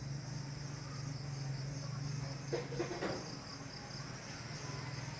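Evening chorus of crickets and other insects, a steady high-pitched trilling, over a low hum that fades out about halfway through.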